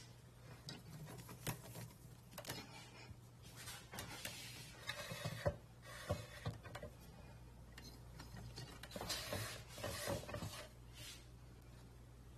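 Scattered light clicks, knocks and rubbing of small objects being handled, over a low steady hum.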